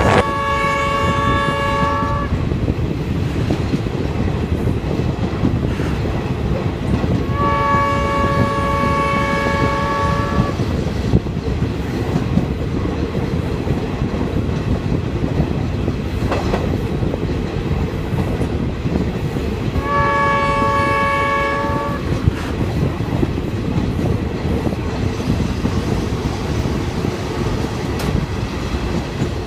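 Passenger train running at speed, heard from an open carriage window: a steady rumble of wheels on the rails. The locomotive's horn sounds three separate blasts, each a chord of several tones lasting two to three seconds: one as the sound begins, one about eight seconds in and one about twenty seconds in.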